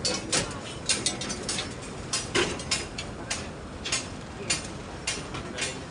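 Irregular series of short, sharp clicks and knocks, roughly two or three a second, like hand-tool work on a construction job.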